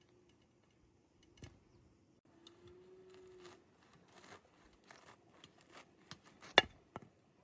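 Scattered light rustling and scraping with a few small clicks, and one sharp snap or knock about six and a half seconds in.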